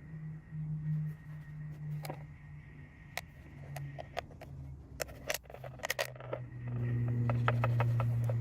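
Clicks and taps of a plastic bottle and oil container being handled as engine oil is poured through a cut-off water bottle used as a funnel into the mini bike's oil filler. A steady low hum comes in near the end.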